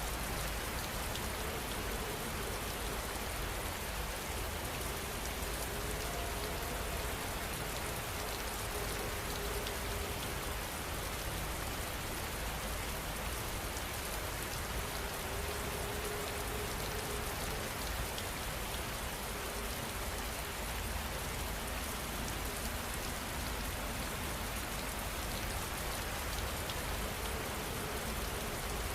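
Heavy rain falling steadily, an even hiss of drops on surfaces with a low rumble underneath.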